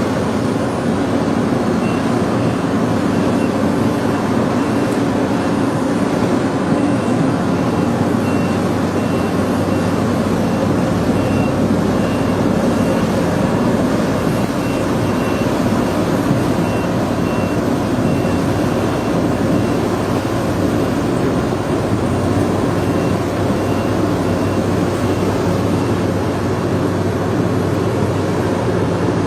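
Heavy machinery engine running steadily, with a high-pitched warning alarm beeping on and off from about two seconds in until near the end.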